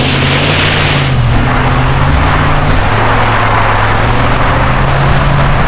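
Ram 1500 pickup's engine running steadily, with a loud hiss over it that cuts off about a second in.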